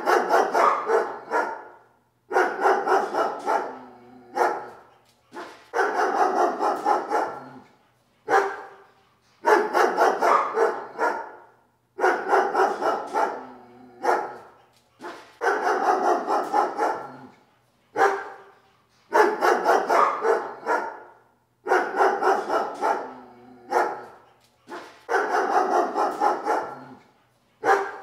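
A dog barking in repeated bouts of rapid barks, each bout a second or two long, with short pauses between them.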